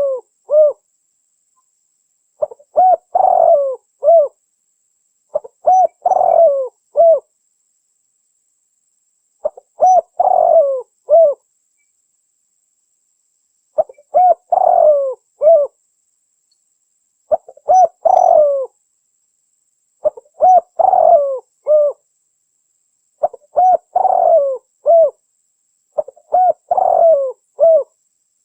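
Spotted dove cooing: a short phrase of several low, curving notes, repeated about every three to four seconds, nine times, with silence between phrases.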